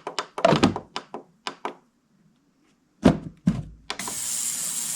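Knocks and clatter as the carburetor body is turned over and set back in the ultrasonic cleaner, then two thumps. About four seconds in, the ultrasonic cleaner starts its cleaning cycle with a steady high-pitched hiss.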